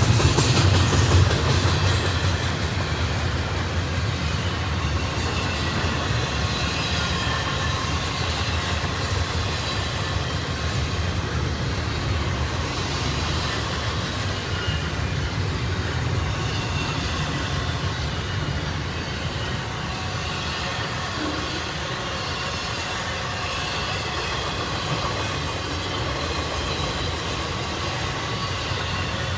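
Cars of a Union Pacific double-stack container train rolling past: a steady rumble of steel wheels on rail, with a faint high wheel squeal.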